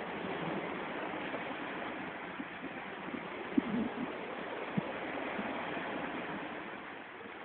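Steady rushing outdoor noise, with a couple of faint knocks about three and a half and five seconds in.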